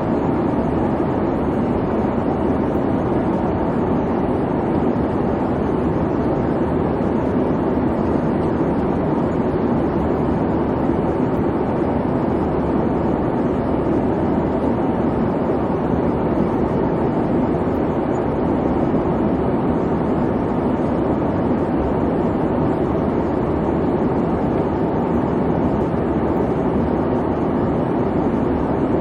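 Steady airliner cabin noise: an even rumble of engine and airflow, strongest in the low-mid range, with no changes or events.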